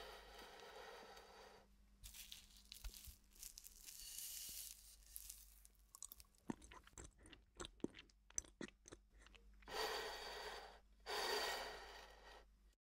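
A person chewing a forkful of food, with a run of sharp crunching clicks in the middle. A ceramic plate scrapes across a wooden tabletop at the start and twice near the end.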